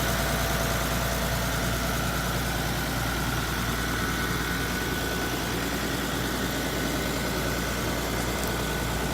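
Hino Ranger truck's diesel engine idling steadily, with a faint high whine above the low engine hum.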